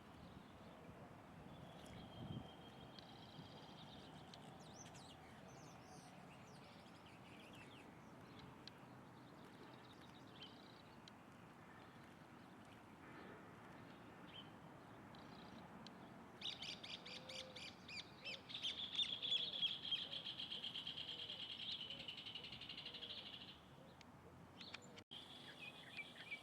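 Birds calling: scattered short, high chirps, then about two-thirds of the way through a fast, high trill lasting several seconds, the loudest sound here.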